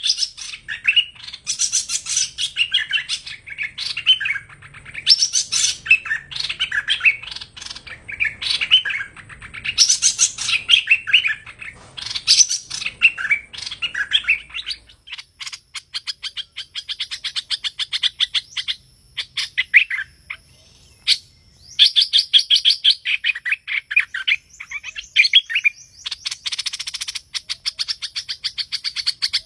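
Song of the bird known in Vietnamese as hoành hoạch, the 'thơm' song type used as a trapping lure: loud, quick chirped phrases repeating every second or two. Over the second half these give way to fast rattling trills and chatter.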